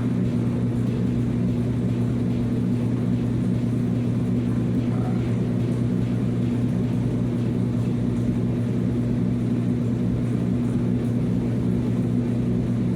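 Steady low mechanical drone at a constant pitch and level, like an idling engine or running machinery.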